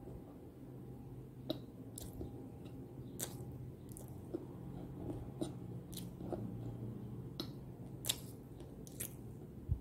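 Close-up chewing and crunching of a hard, crunchy edible-clay cookie (nakumatt in white khadi paste), with sharp crunches about once a second over a low steady hum.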